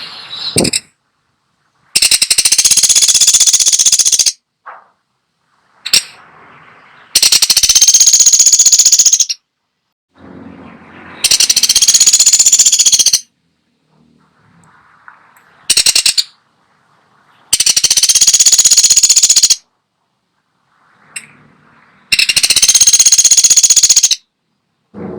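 Woodpecker (pelatuk sampit) giving loud, rapid, harsh rattling calls of about two seconds each, six in all (one of them short), every four to five seconds, with fainter calls in the gaps.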